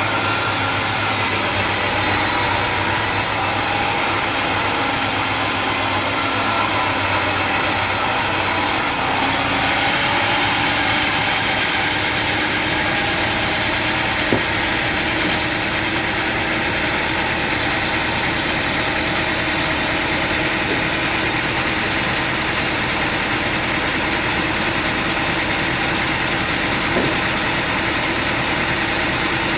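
An engine running steadily at idle, with a change in its sound about nine seconds in and two brief knocks, one near the middle and one near the end.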